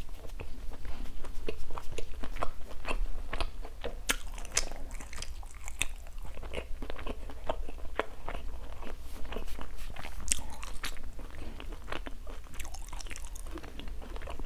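Close-miked chewing of bánh bao chỉ, a soft glutinous-rice ball coated in dried coconut: a steady run of irregular mouth clicks and smacks.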